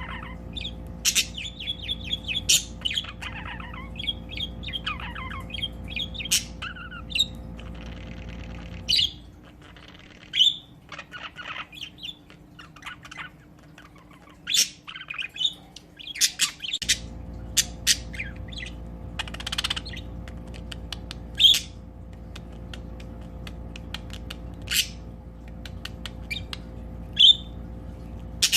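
Pet budgerigars chattering to each other: warbling chatter and many short, sharp chirps and squawks. Underneath is a steady low hum that stops for several seconds in the middle.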